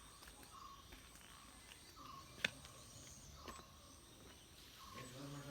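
Quiet rural ambience of insects and birds: a high, thin insect buzz that starts and stops, and a few short chirps, with one sharp click about two and a half seconds in.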